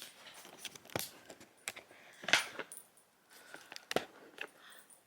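A few scattered light clicks and knocks, the strongest about two and a half seconds in: handling noise from a hand-held phone camera being moved and adjusted.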